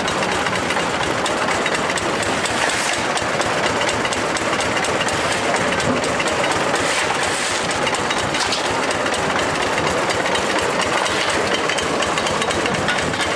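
An old excavator running: a steady engine sound with a dense, rapid mechanical clatter.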